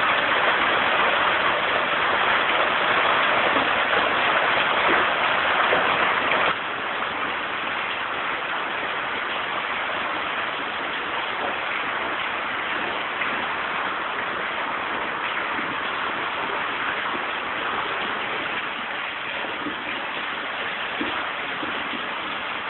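Steady rushing noise of storm water from heavy rain. It drops suddenly in level about six and a half seconds in and goes on softer.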